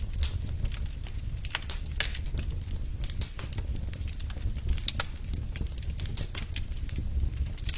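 Fire crackling in a fireplace: many irregular sharp pops and snaps over a low steady rumble of the flames.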